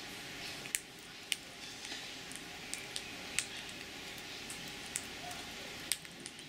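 A bird feeding from a hand: a few sharp, irregular clicks of its beak pecking and cracking food, over a steady faint hiss.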